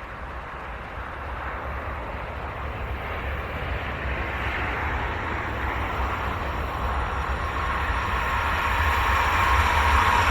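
A train hauled by a Siemens Smartron electric locomotive approaching, its rolling rumble growing steadily louder, with a steady whine coming in near the end.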